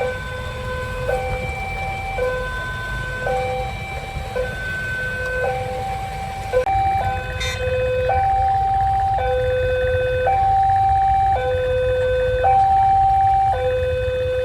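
Railway level-crossing warning alarm sounding a two-tone hi-lo signal, switching pitch about once a second, over a low rumble of traffic engines. About six and a half seconds in, a second alarm out of step with the first joins and the sound gets louder.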